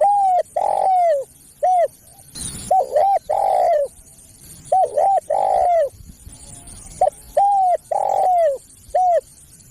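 Spotted dove cooing: about four repeated phrases, each of short arched coos and one longer coo.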